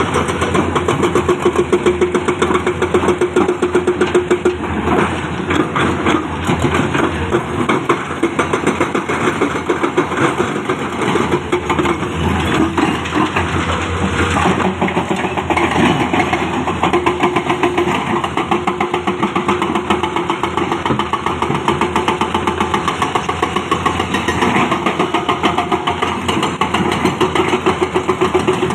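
Heavy construction machinery, an excavator and dump truck, with their diesel engines running steadily throughout, a fast, even pulsing that rises and falls a little in loudness.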